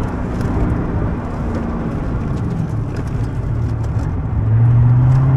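1999 Ford SVT Cobra's 4.6-litre DOHC V8 heard from inside the cabin, running under way with road noise. About four seconds in the engine note gets louder and climbs steadily in pitch as the car accelerates.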